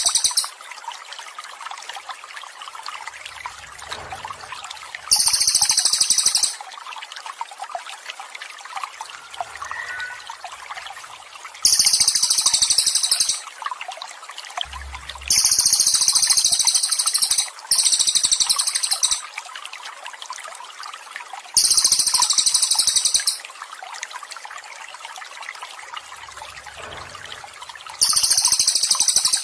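Continuous trickling water with a songbird's high, buzzy trill breaking in repeatedly, each burst lasting about a second and a half and coming every few seconds; the trills are louder than the water.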